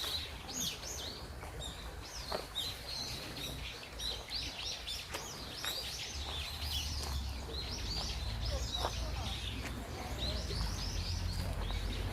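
Many small birds chirping and twittering in quick overlapping calls, over a low rumble that grows louder about halfway through.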